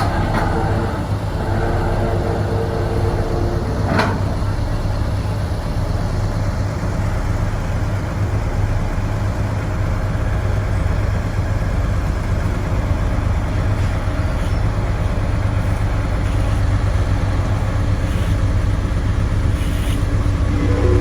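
Heavy diesel construction machinery running steadily with a deep, low rumble. There is a short sharp click about four seconds in.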